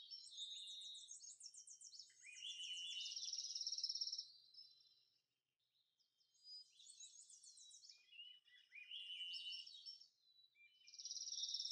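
Faint songbird song: phrases of quick trilled notes and short rising and falling notes, with a pause of about two seconds between phrases and another phrase starting near the end.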